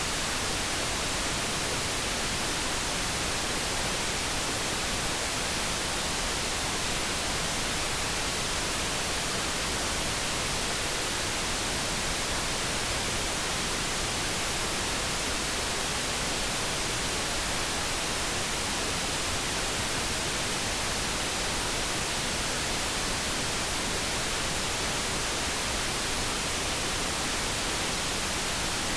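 Steady synthetic noise: an even, unbroken hiss with no tones or changes.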